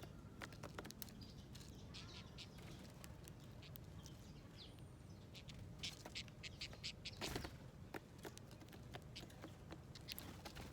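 Small wild birds at a garden seed feeder: scattered pecking taps and clicks on the dish, with a few faint chirps and a brief flurry about seven seconds in.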